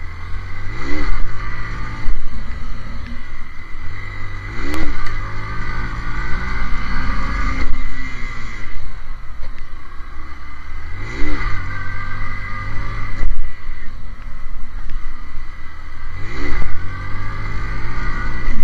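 A 150 cc Honda single-cylinder motorcycle engine running, revved up and let fall four times as the rider throttles up for wheelie attempts, with wind rumble underneath.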